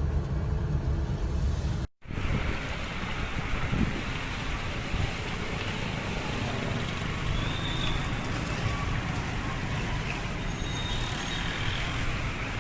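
Steady rushing noise of road traffic and wind, cut off sharply about two seconds in, after which it comes back brighter and hissier.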